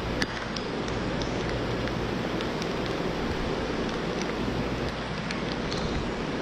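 Heavy storm rain falling steadily, a dense rushing hiss with scattered sharper ticks of individual drops.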